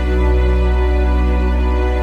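Background music: calm, slow instrumental with a deep held bass note and long sustained chords.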